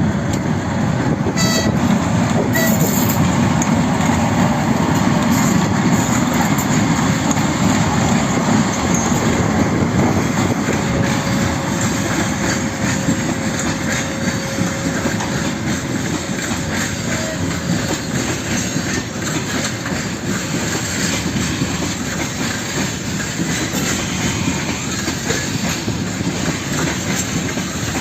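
Freight train wagons rolling past steadily, with rumbling and wheel clatter over the rail joints. A faint, thin wheel squeal sounds partway through.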